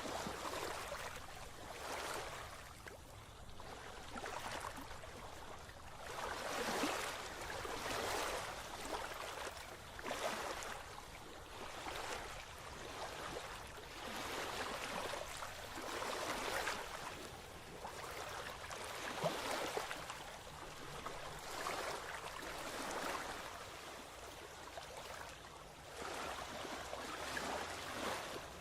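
Rushing water, swelling and falling away about every two seconds, like waves washing in.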